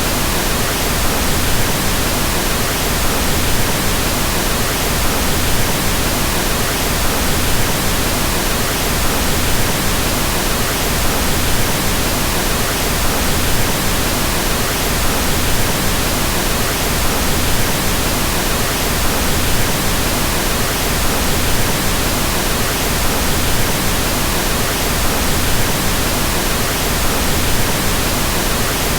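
Steady, unchanging pink noise: an even hiss across the whole range, fuller in the lows than white noise, with no events or changes.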